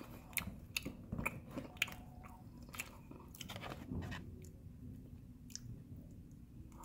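Close-up chewing of a Cinnabon cinnamon roll, with a run of sharp clicks through the first three seconds that then give way to quieter chewing.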